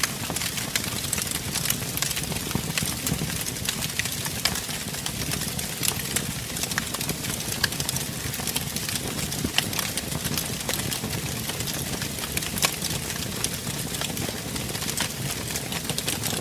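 Wood fire in a fireplace crackling, with many small sharp pops over a steady low rumble and hiss of the flames.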